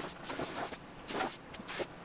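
Paint spray gun hissing in short bursts, the trigger pulled and released several times, while a coat of paint goes on a car body.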